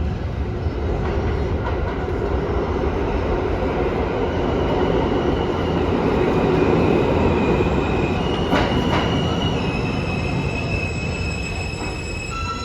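New York City subway train running through the station, a loud rumble of wheels on rail that swells toward the middle. From about eight seconds in, high steady squeals join it, wheels or brakes squealing, with a couple of sharp clicks just before.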